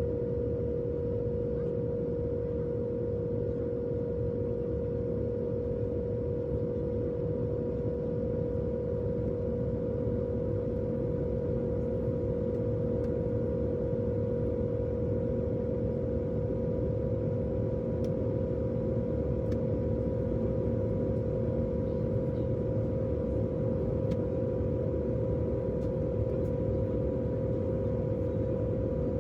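Jet airliner cabin noise in flight: a steady drone of rushing air with a constant hum running underneath.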